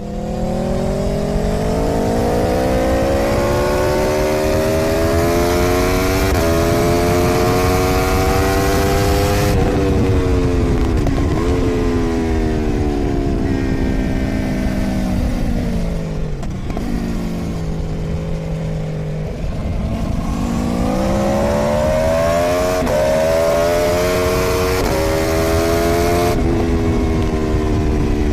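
The V4 engine of a 2013 Aprilia Tuono V4 at full throttle on a racetrack, pulling up through the gears with an upshift about six seconds in. It then downshifts and slows into a slow corner, holding low revs for a few seconds. It then accelerates hard again with quick upshifts before backing off near the end, with wind rushing over the microphone at speed.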